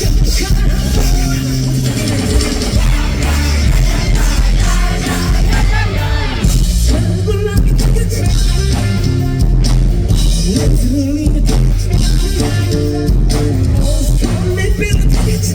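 Live rock band playing loud, heavy rock with driving bass and drums and a singer's voice over it.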